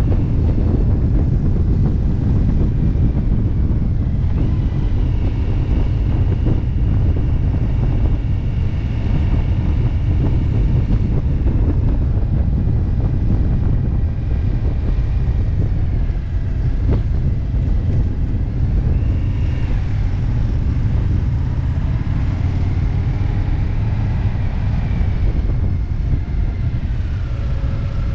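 Motorcycle riding at road speed: a steady engine drone under heavy wind noise rushing over the microphone, with the engine note rising and falling slightly now and then.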